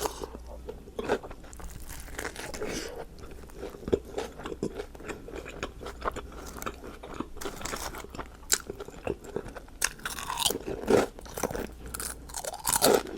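Close-miked eating: irregular bites and crunchy chewing of food, a steady run of crackling crunches with no pauses longer than a moment.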